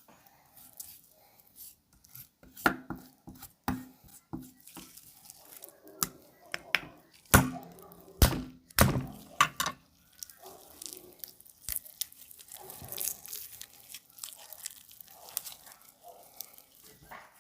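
Knife knocking on a cutting board in irregular strokes while raw chicken is cut, with softer cutting and tearing sounds between the knocks.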